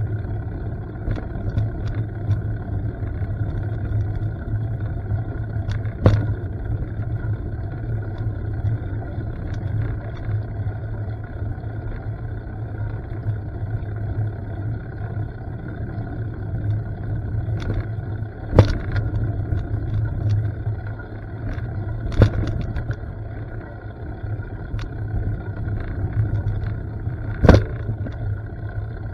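Steady rumble of a mountain bike ride on a dirt trail, heard from a camera riding along: tyre and wind noise, with four sharp knocks from bumps or rattles in the bike. The loudest knock comes near the end.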